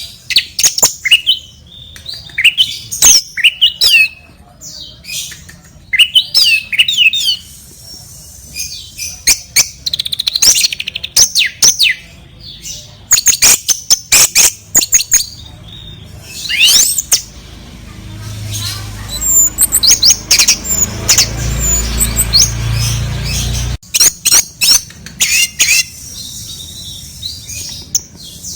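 Sooty-headed bulbul (kutilang) calling in repeated clusters of short, sweeping calls. In the second half a low rumble runs for several seconds and then cuts off suddenly.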